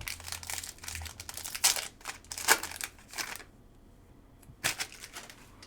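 A trading-card pack's wrapper being torn open and crinkled, with dense rustling for about three and a half seconds, then a couple of light taps as the cards are handled.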